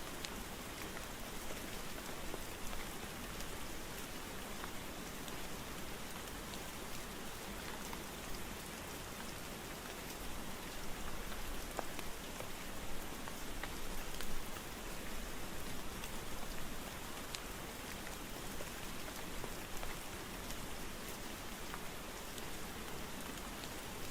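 Steady rain falling: a dense, even hiss with scattered individual drop ticks, swelling slightly now and then.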